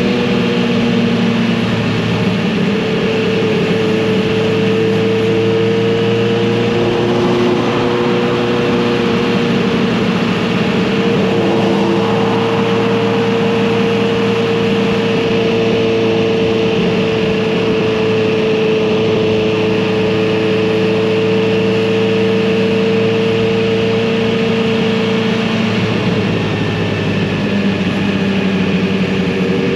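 Kawasaki Z900RS inline-four motorcycle engine and exhaust under way, holding steady revs at cruise over road and wind noise. Near the end the revs drop briefly, then pick up again.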